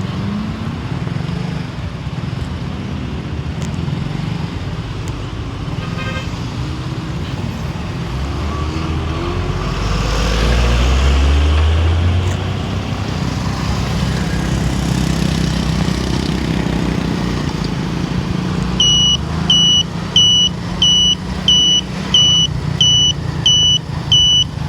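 A car on the road: steady engine and road noise, swelling louder for a few seconds about ten seconds in. Near the end, a high electronic beep repeats about ten times in quick succession, a little under a second apart.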